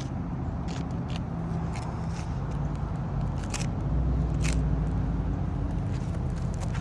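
Asphalt shingle seal being broken loose: scattered short scrapes and clicks over a steady low engine drone.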